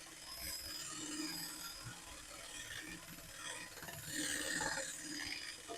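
Faint, irregular scraping and clicking of undercoating being worked off a car's exhaust pipe, a little louder about four seconds in.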